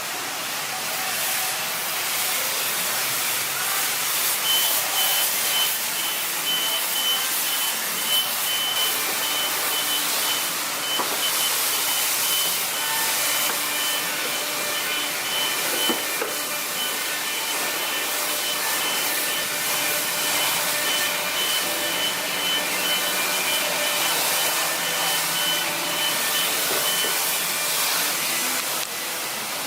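Self-serve car wash high-pressure spray wand jetting water, a steady hiss. A thin high whine comes in a few seconds in and stops shortly before the end.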